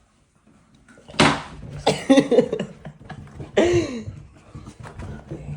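Three short vocal sounds, each with a breathy start, the last one rising and falling in pitch.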